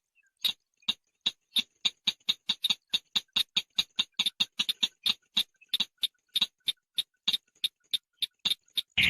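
Chàng nghịch (long-tailed shrike) calling: a long run of short, sharp ticking notes, about four a second.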